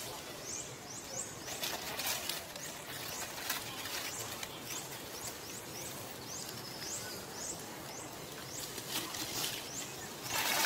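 A small bird calling in a steady series of short, high, falling chirps, with brief rustles of dry leaves in between.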